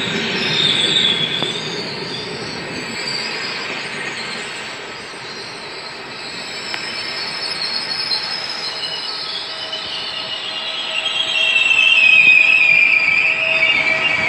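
Double-deck regional passenger train rolling slowly past, its wheels squealing in high, wavering tones over the rumble of the coaches on the rails. The squeal swells and is loudest near the end.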